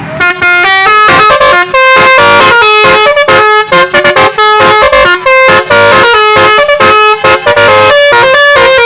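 A bus's multi-tone musical air horn (telolet horn) playing a fast tune of stepped notes, very loud throughout.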